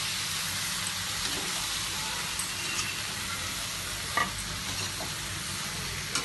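Chicken pieces sizzling in oil in an iron kadai while a slotted steel spoon stirs them, with a steady hiss and a couple of sharp knocks of the spoon against the pan, about four seconds in and near the end.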